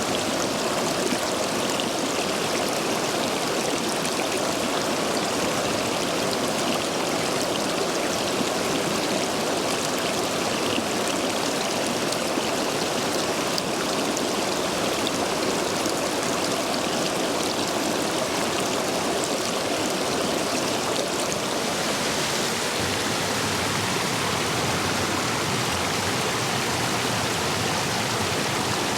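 Stream water rushing over and between stepping stones, swollen after heavy rain, a steady rush. About 22 seconds in, the sound changes to a brighter, more even hiss of water.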